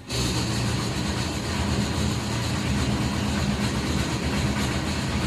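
Hot air oven's circulation fan switched on and running noisily: it starts abruptly, then gives a steady loud hum with a rattling noise over it. The noise comes from a loose fan, which the owner later finds in the fan section.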